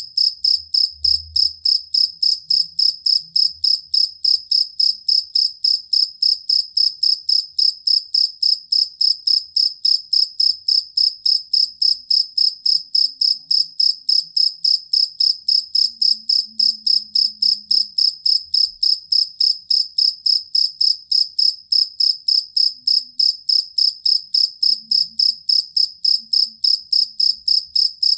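A jangkrik kalung (collar cricket, the two-spotted field cricket) chirping steadily. It gives short, high-pitched chirps at an even pace of about three a second.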